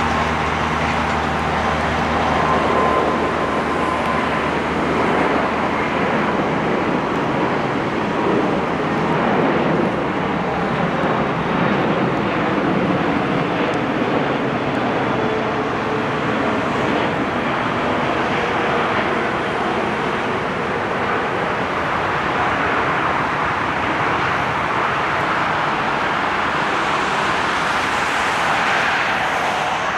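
Airbus A380 landing: a loud, steady rushing noise of jet engines and air, with a low hum that stops about two seconds in.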